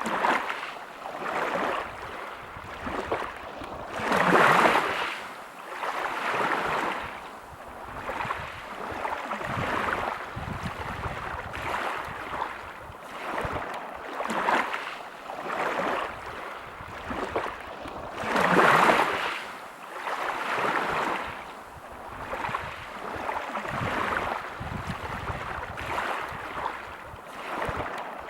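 Waves breaking on a pebble beach, the wash rising and falling every second or two. Two louder breakers come through, one about four seconds in and one about two-thirds of the way through.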